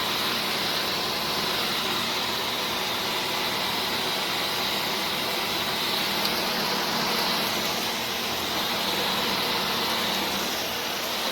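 Dyson Gen5outsize cordless stick vacuum running steadily: an even rush of air with a high whine from the motor.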